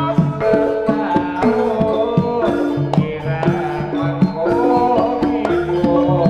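Javanese jaranan ensemble music: hand drums (kendang) and pitched gamelan metallophones play a steady rhythm with held pitched notes.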